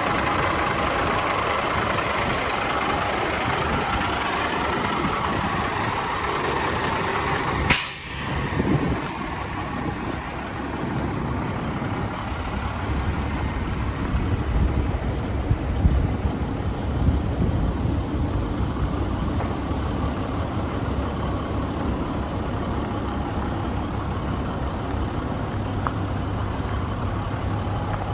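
The International 4300 truck's 7.6-litre diesel engine running steadily at idle, with one short, sharp burst of noise about eight seconds in.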